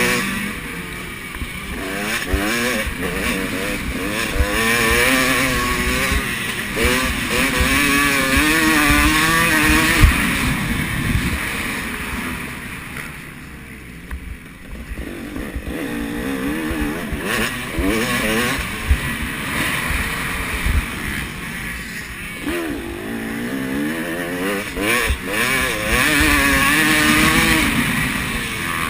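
Motocross bike engines revving and shifting as riders race past on the track, several engines at once with pitches rising and falling. They fade about halfway through and come back louder as the next group passes.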